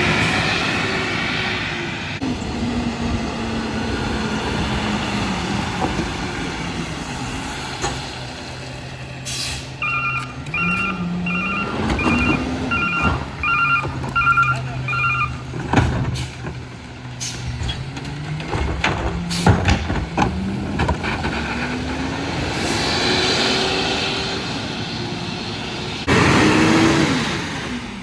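Freightliner M2 McNeilus rear-loader garbage truck engine revving up and settling back several times, with sharp knocks scattered through. Partway through, its backup alarm gives a run of about seven beeps, and there is a loud burst of noise near the end.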